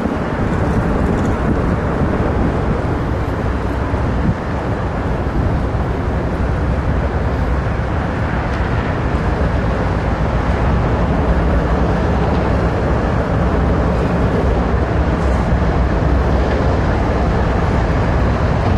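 A passing train making a steady, unbroken rumble.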